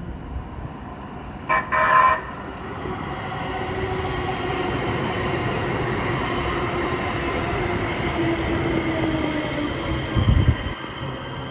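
Light rail train sounding two short horn blasts about a second and a half in, then running past with a rising rumble and a falling motor whine. A brief low thump comes near the end.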